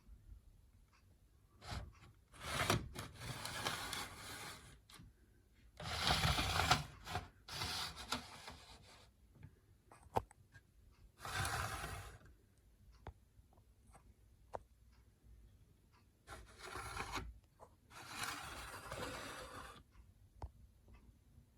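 Bursts of scraping and rubbing from objects being handled, each lasting a second or two and about five in all, with scattered clicks between them.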